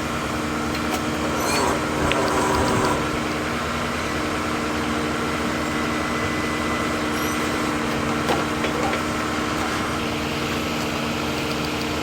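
Engine idling steadily, with a brief rougher, slightly louder stretch about two seconds in.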